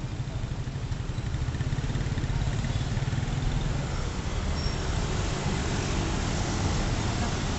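Motorcycle engine of a sidecar tricycle running close by and pulling away from the curb, with a steady rapid pulsing, over street traffic noise that grows louder about two seconds in.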